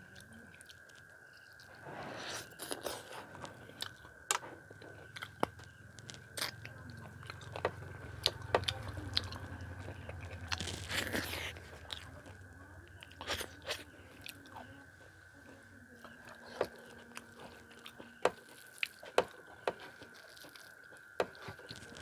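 A man eating rice with chicken chilli and okra fry by hand: chewing with wet mouth clicks, smacks and small crunches scattered irregularly throughout. A faint steady high whine runs underneath.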